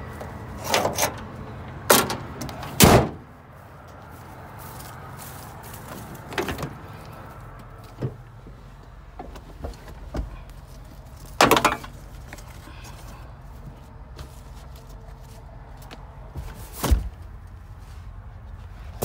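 Small pickup truck's engine running steadily in the background while a series of sharp clunks and knocks, like doors or body panels being handled, sound over it; the loudest comes about three seconds in.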